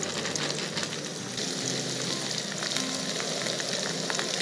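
Breaded catfish fillet pieces frying in hot oil in a skillet: a steady sizzle with dense crackling, which grows louder about a second and a half in as more pieces go into the oil.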